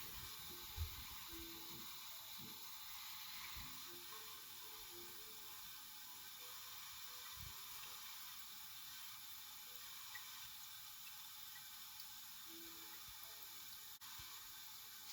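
Toilet tank fill valve running on without shutting off, a faint steady hiss of water filling the tank: the tank is overfilling, a fill valve that may need adjusting or replacing. A short thump about a second in.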